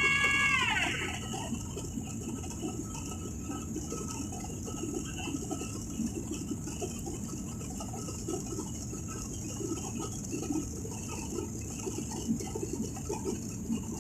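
Steady low rumble of an airliner cabin in flight, with small irregular rattles. At the very start a child's high wail slides down in pitch and dies away within the first second.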